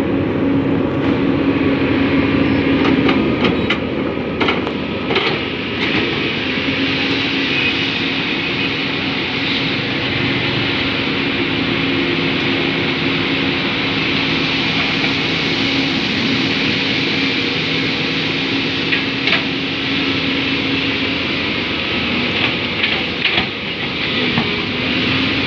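Caterpillar hydraulic excavators working: diesel engines running steadily under load with a constant low drone and hiss, and a few sharp metal clanks.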